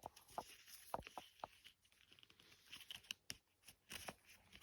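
Near silence, with a few faint, short clicks and rustles scattered through it.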